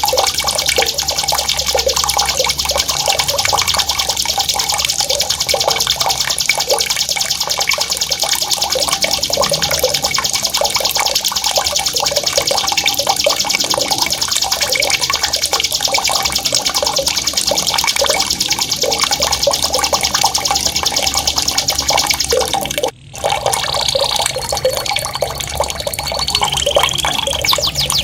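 A songbird's long, very fast rolling trill, unbroken for over twenty seconds, over steadily gurgling water. It is a masteran recording used to teach competition birds a sharp, loud roll. The sound cuts out briefly about 23 seconds in, then comes back with a few drawn-out whistled notes before the rapid trill resumes.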